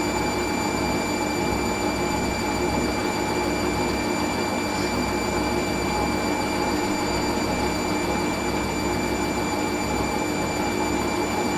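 Hoover AAA Whisper 1600 washing machine spinning its drum at steady high speed, a mid-cycle spin before the final rinse. A steady whine with several fixed tones over a rushing hum, unchanging throughout.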